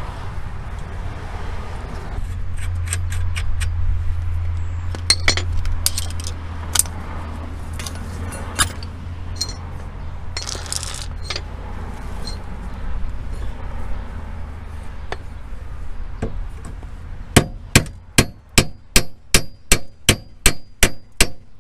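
Metal being struck with a hammer: scattered clinks and knocks of tools on metal, then near the end a run of about fourteen ringing clangs at roughly three a second. A steady low hum runs underneath throughout.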